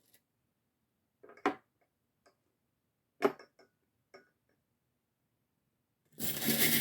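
Divination charms clicking sharply a handful of times as they are taken out and handled, then from about six seconds in a loud continuous jangling as the charms are shaken together for casting.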